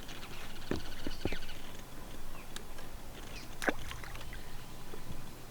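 Water lapping against a small boat's hull, with a few light knocks and taps against the boat.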